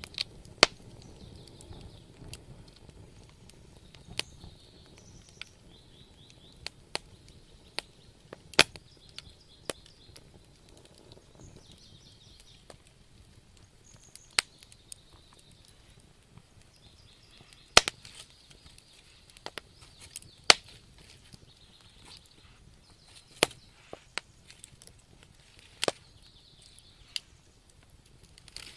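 Wood fire burning in a fireplace, crackling with sharp pops at irregular intervals, a few of them much louder, over a soft low rumble of the flames.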